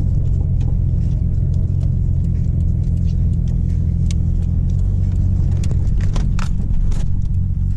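A car engine running steadily with a low, even rumble and no revving. A few light clicks sound over it.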